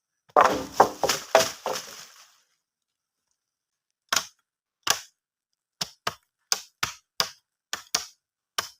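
A short burst of louder sound in the first two seconds, then a run of about a dozen sharp strikes, roughly one every two-thirds of a second, like blows on wood while building a camp.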